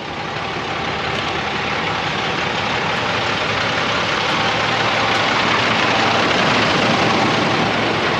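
Semi truck running, heard as a steady rushing noise with a low engine drone that grows gradually louder over the first few seconds, then holds.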